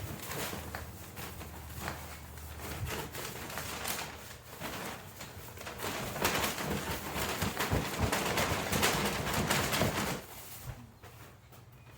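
Rustling and crackling of a bag full of dry maple seed debris being shaken out and emptied into another bag, loudest in the second half and stopping abruptly about ten seconds in.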